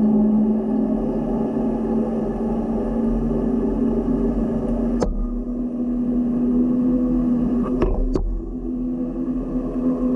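A motor running steadily at a constant pitch, with a sharp click about halfway through and two more near the end.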